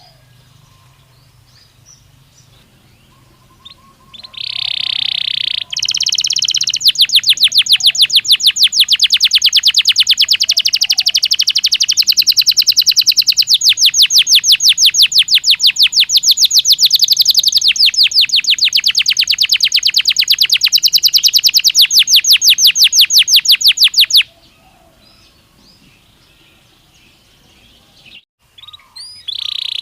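Belgian canary singing. After a few quiet seconds it gives a short burst, then a long, fast, evenly repeated trill lasting about eighteen seconds that stops suddenly. Song starts again near the end.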